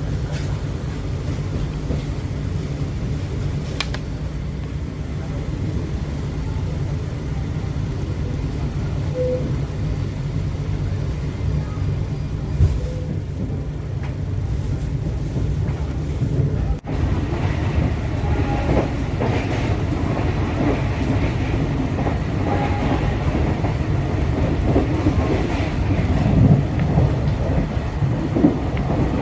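Steady low rumble of a passenger train running, heard from inside the carriage. There is a brief break a little past halfway, after which the rumble carries on with more scattered small sounds on top.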